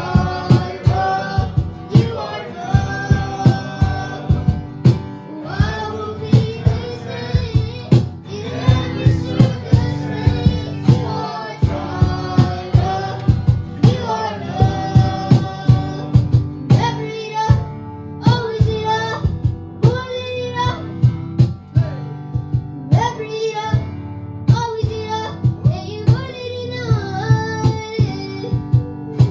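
Live worship band playing, with voices singing a melody over sustained chords and a steady drum beat.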